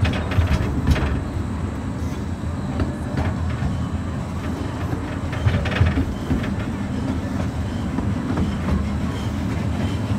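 Open passenger car of an amusement park train rolling along the track: a steady low rumble from the wheels, with irregular clacks over the rails.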